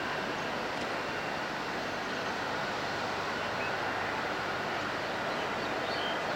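Jet airliner engines running with a steady, even noise and a faint whine in it, unchanging throughout.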